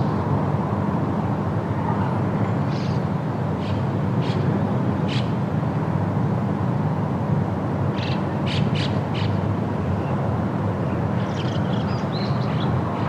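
Steady wind with a low rumble, and short bird chirps in three bursts: a few spaced chirps early on, a quick run of chirps about eight seconds in, and a twittering cluster near the end.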